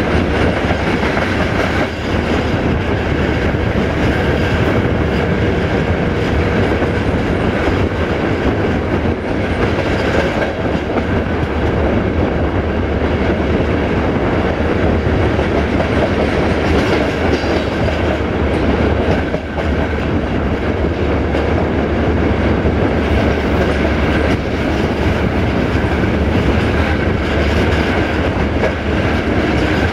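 Passenger train running along the track, heard from an open coach window: a steady rumble of wheels on rails with a low drone from the diesel locomotive up front, and occasional clacks over rail joints.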